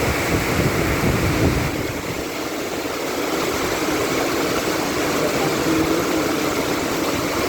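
Heavy rain pouring down in a steady hiss, with low gusts buffeting the microphone in the first couple of seconds.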